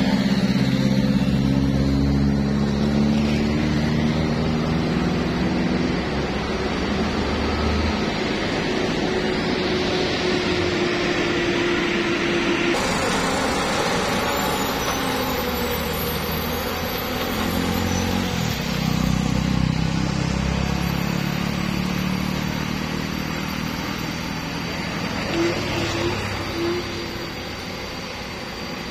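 Heavy trucks passing on a steep mountain road: diesel engines running steadily, over road and tyre noise. One engine's drone stops about eight seconds in, and another passes briefly later.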